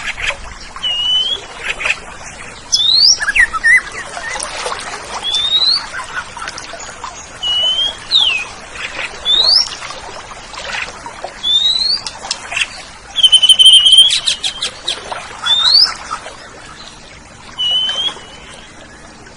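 Oriental magpie-robin (kacer) singing: short clear whistled notes that slide up or down, given in phrases with pauses between them, and one louder buzzy, rasping phrase about two-thirds of the way through.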